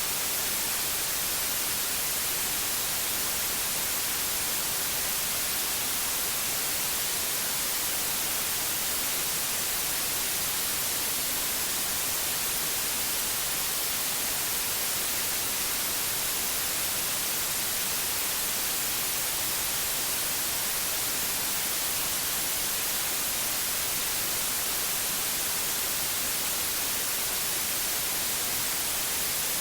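Synthetic white noise: a steady, unbroken hiss, brightest in the high end, with no change.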